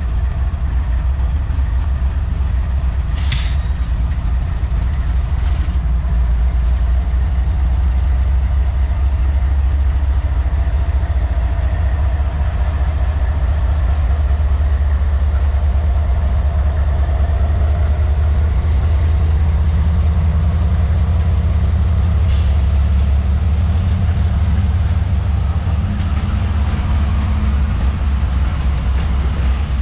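Slow-moving CSX freight train passing, its diesel locomotive engines giving a deep steady rumble, with a sharp click from the rails twice.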